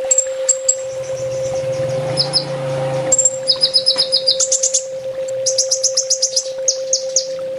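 Kolibri ninja (a sunbird) singing a fast, high twittering song of quick chirp runs and short trills, as used for a masteran training recording. A steady low hum runs under it, with a low rumble from about one to three seconds in.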